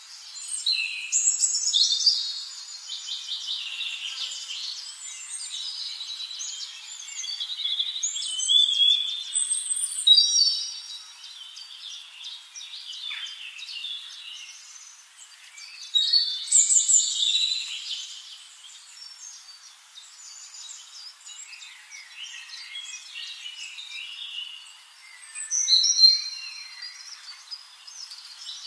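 Several birds chirping and singing over one another in a mix of short high chirps, trills and whistles, louder in bursts a second or two in, around eight to ten seconds, around sixteen seconds and near the end.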